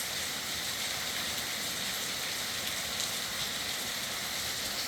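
A steady hiss with a faint crackle throughout, like rain on a surface or sizzling static.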